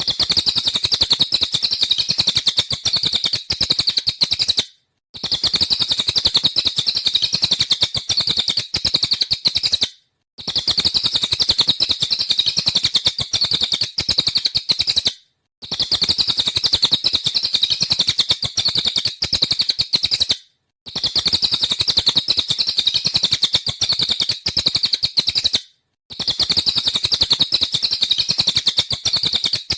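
Cililin (jalilin) songbird singing in its rapid-fire 'nembak' style: a dense, fast stream of high notes that goes on for about five seconds at a time. Each run breaks off into a short silence before starting again, five times over.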